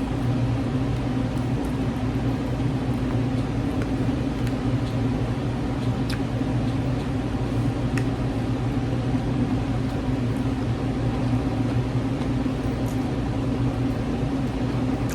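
A steady low mechanical hum, unchanging throughout, with a few faint, sharp clicks scattered through it.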